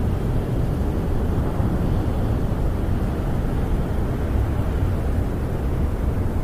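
Snowstorm wind howling around a camper, heard from inside as a steady low rumble and rush with no separate knocks or gusts standing out.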